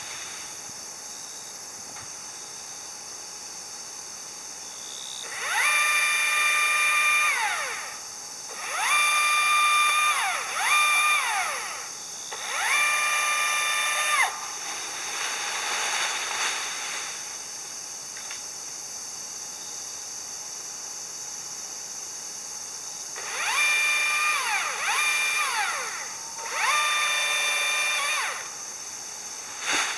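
Small electric power-tool motor, like a cordless drill, spinning up, running briefly and winding down in short bursts: seven bursts in two groups, the pitch rising, holding steady and falling each time.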